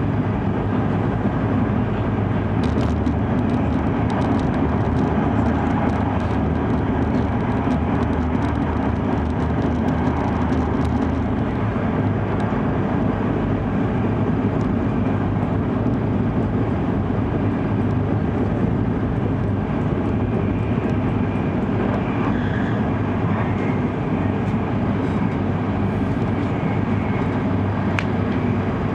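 Steady running noise inside the cabin of an E5 series Shinkansen travelling at speed: a constant low rumble under an even hiss, with no change in level.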